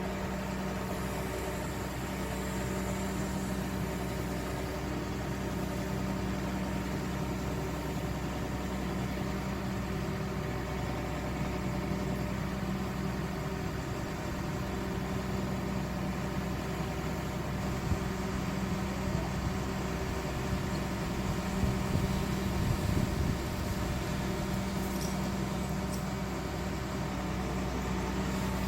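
Excavator's diesel engine running steadily, with a few short sharp knocks in the second half.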